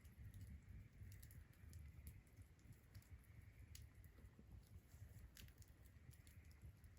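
Faint crackling of a wood bonfire: scattered, irregular sharp pops and ticks over a low rumble.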